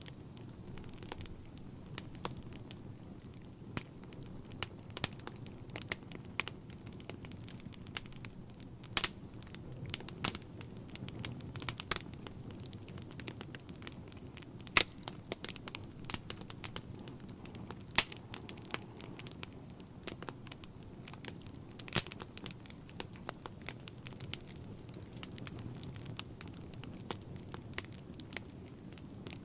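Wood fire in a fireplace crackling: a constant irregular patter of snaps with louder pops now and then, over a low steady rumble of the flames.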